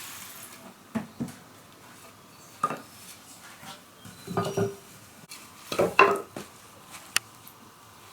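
Hard objects being handled and set down: a series of separate knocks and clinks, the loudest cluster about six seconds in.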